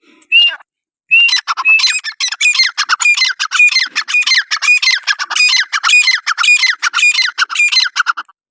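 Francolin calling: one short note, then from about a second in a long, rapid series of loud, harsh repeated phrases, about two a second, each with a falling sweep.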